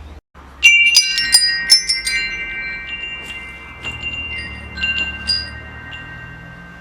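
Metal wind chime ringing: a quick cluster of strikes about half a second in, their tones ringing on and slowly fading, then a few more scattered strikes around four to five seconds in.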